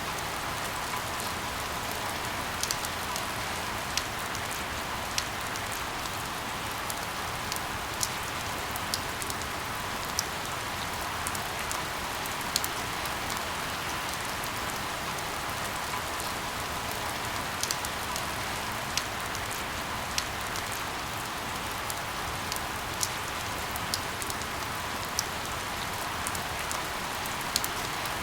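Steady rain falling, an even hiss with scattered sharp drop taps about once a second.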